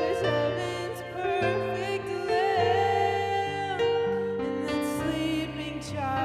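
Music: a song with a voice singing long held notes, some with vibrato, over instrumental accompaniment.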